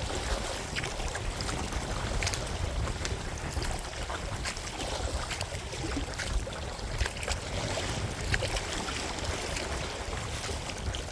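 Choppy wind-driven water splashing against a small kayak, with wind rumbling on the microphone and scattered sharp slaps of water.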